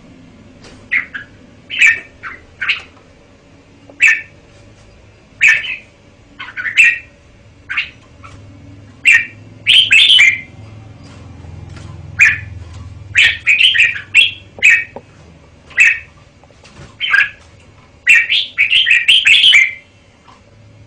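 Red-whiskered bulbul singing: short, bright phrases about every second or two, broken now and then by quicker runs of several notes.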